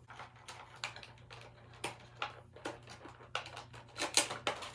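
Plastic blister packaging and toy accessories being handled: irregular clicks and short crinkles, several a second, loudest near the end, over a steady low hum.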